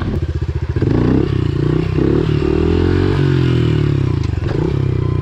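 Pit bike's small single-cylinder engine revving hard while being ridden: several short blips of throttle, then a longer rev that rises, holds and falls away, with another quick blip near the end. Typical of throttle work while trying to pop wheelies.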